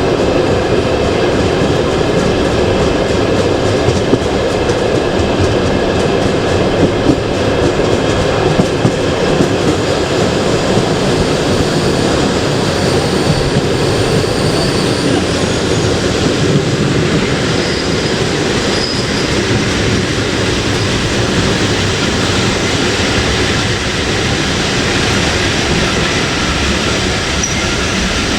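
Passenger train carriage running steadily along the track, a constant rumble of wheels on rails with a few light knocks early on. Faint high wheel squeal comes in briefly a couple of times around the middle.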